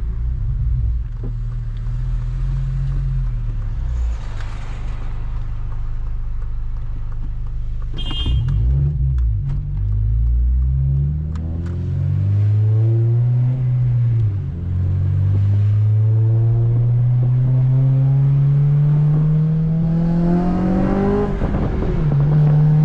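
Honda Civic Si's 2.0-litre four-cylinder i-VTEC engine under way, heard from inside the car. The revs rise and fall twice, then climb steadily for about ten seconds in a long pull before dropping sharply at a gear change near the end.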